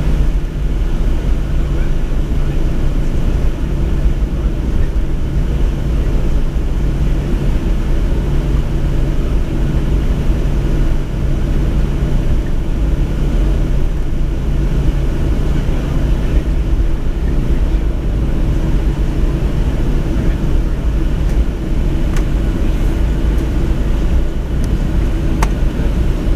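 Steady low rumble and hum of a parked Boeing 737's cabin with its air conditioning running, with a couple of faint clicks near the end.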